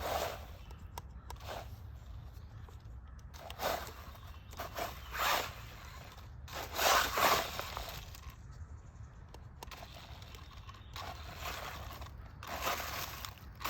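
Irregular scraping and crunching on dry leaves, rocks and roots, about eight short bursts a second or more apart, over a steady low rumble. The sound fits an RC truck crawling over the trail.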